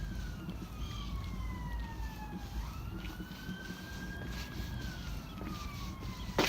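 Emergency vehicle siren wailing: a single tone slowly falling and rising over a few seconds at a time, over low wind rumble. A sharp click comes near the end.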